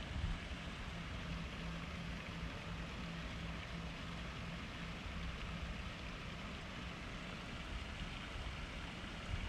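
Rainy city street ambience: a steady hiss of rain and wet traffic with a low rumble, and a steady low hum through the first half.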